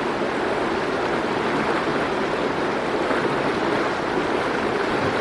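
Water rushing steadily along an irrigation channel, an even, unbroken rush of flowing water.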